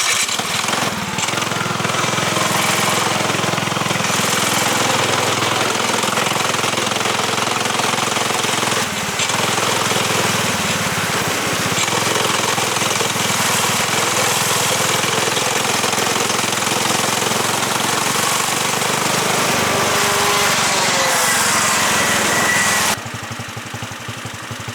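Subaru KX21 single-cylinder kart engine at high revs as the kart pulls away, a loud rattly buzz with some rises and falls in pitch. Near the end it drops suddenly to a much quieter run.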